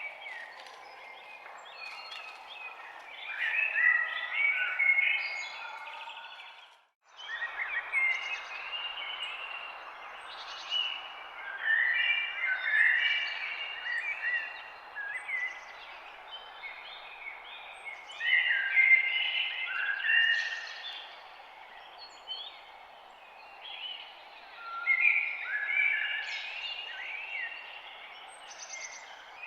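Several songbirds chirping and twittering in busy spells over a steady background hiss; all sound cuts out for a moment about seven seconds in.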